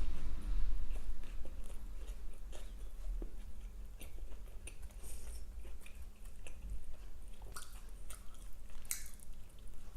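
Close-miked chewing of a burger and fast food, wet smacking mouth sounds with scattered small crunches.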